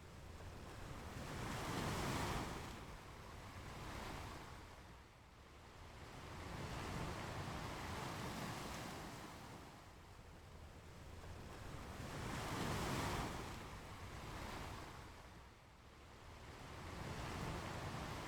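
Ocean surf breaking and washing up a beach, swelling and fading in four waves, the loudest about two seconds in and again past the middle.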